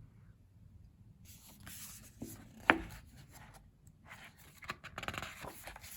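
Glossy paper pages of a photobook being turned and handled: two stretches of soft rustling and sliding, with one sharp click about halfway through.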